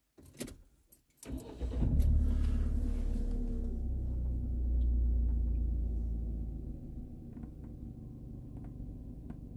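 MG ZS engine being started: a few clicks, then about a second in it cranks and catches. It runs louder for several seconds, then settles to a quieter idle around seven seconds in.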